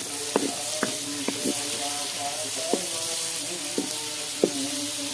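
Chicken and eggplant curry sizzling in a pot while being stirred, with a spoon knocking against the pot every so often, over background music.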